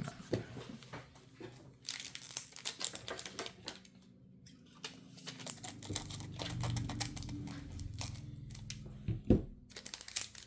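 Plastic Magic: The Gathering booster pack wrapper crinkling and being torn open, with dense crackling throughout. A sharp knock comes about nine seconds in.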